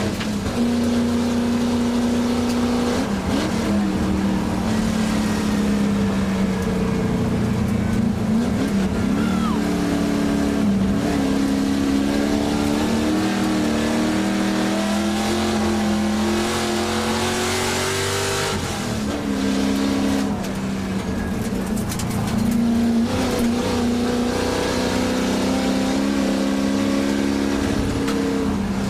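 1967 Ford Shelby GT350's V8 heard from inside the cabin, pulling hard under racing load with its note slowly rising, then dropping sharply about two-thirds of the way through before climbing again. Tyre and gravel noise runs underneath.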